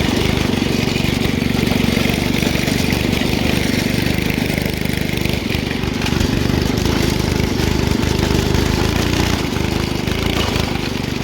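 An engine running steadily and close by, with a dense low drone throughout.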